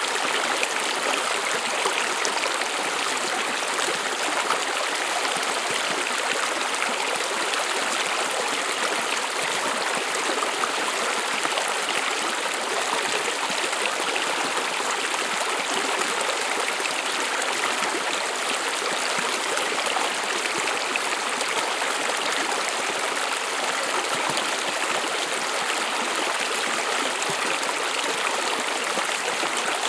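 A small stream running over rocks: a steady babble of flowing water with no pauses or changes.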